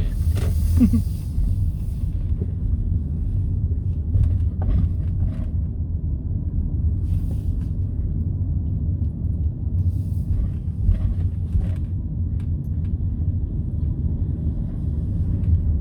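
Car interior road noise while driving: a steady low rumble of engine and tyres, with a brief hiss in the first couple of seconds and a few faint knocks and clicks.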